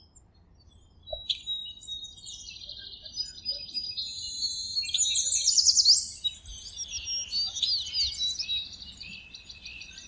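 Birds chirping and singing, several high, quick calls overlapping, with trills and sweeping whistles.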